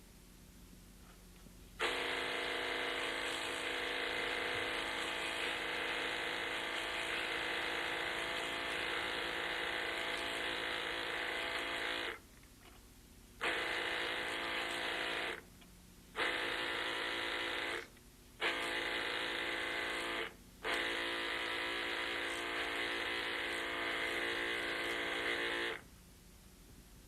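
Small electric motor of an Rx System 2 dental instrument honing machine running with a steady whine, driving the hone while a bone file is sharpened. It cuts out and comes back with a click four times, then stops near the end.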